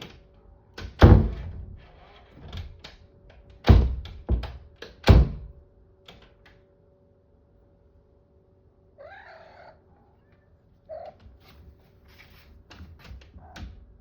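A door being struck with four loud thumps in the first five seconds, then a short cat meow about nine seconds in and another brief cry about two seconds later.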